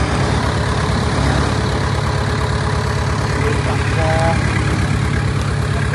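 Heavy diesel engine of an earthmoving machine running steadily at idle, a fast, even low throb.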